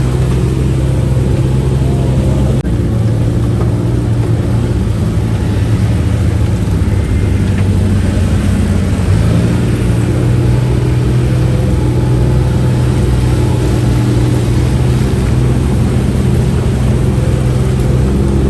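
UTV engine running steadily while the vehicle is driven along a trail. The engine note dips briefly about two and a half seconds in and shifts again around nine seconds, as the throttle changes.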